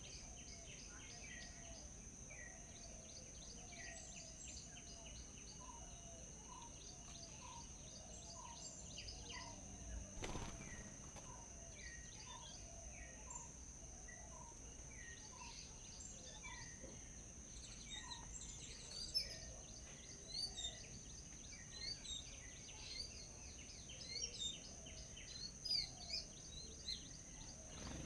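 Birds chirping in many short, repeated notes, growing busier in the second half. Under them runs a steady high-pitched tone, and there is a single brief knock about ten seconds in.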